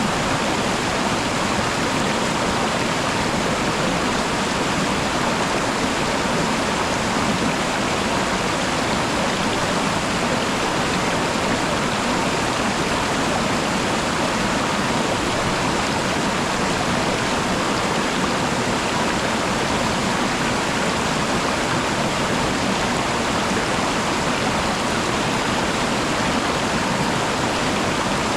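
Waterfall: water pouring down and splashing, a loud steady rushing noise with no break.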